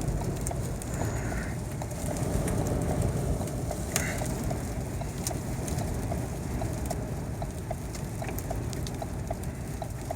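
Strong wind buffeting a stopped car, heard from inside the cabin as a heavy, uneven low rumble, with grit from a dust storm clicking against the body and glass. Through it runs an even ticking, about two or three a second, typical of the car's hazard-flasher relay.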